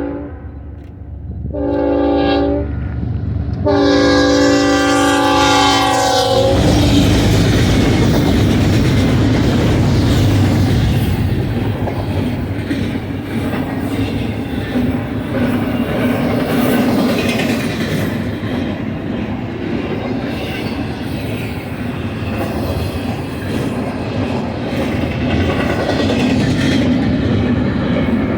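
BNSF ES44C4 lead locomotive's air horn sounding: the end of one blast, a short blast, then a longer one that stops about six and a half seconds in. The locomotives and a long double-stack container train then roll past close by with a steady loud rumble.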